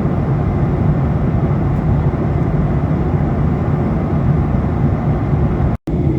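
Steady rumble of engine and airflow noise inside the cabin of a Boeing 737-800, cutting out for a split second near the end.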